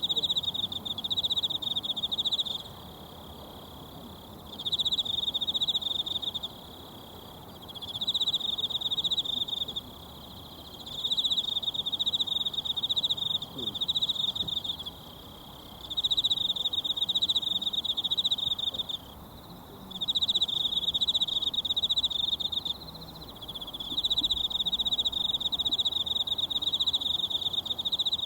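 An insect trilling in a high, finely pulsed chirr, in about seven bursts of two to three seconds each, with short pauses between them. Under it runs the soft, steady rush of a mountain stream.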